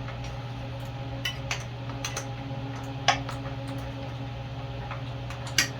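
Light metallic clinks and taps of a wrench and small engine parts being handled, with the sharpest knock about three seconds in and another near the end, over a steady low hum.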